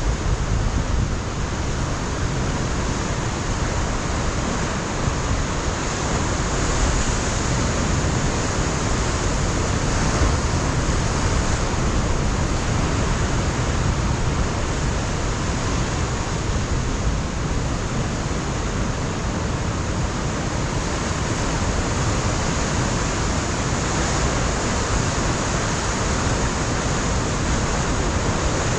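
Pacific surf breaking on a rocky shoreline, a steady unbroken rushing noise, with wind rumbling on the microphone.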